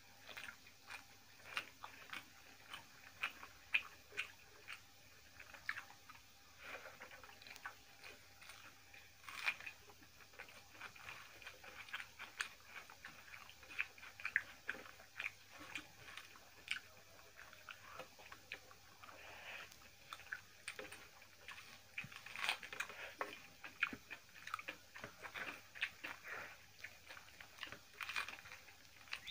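Close-up chewing and mouth smacking of people eating rice and curry by hand: a steady run of small, irregular clicks and smacks.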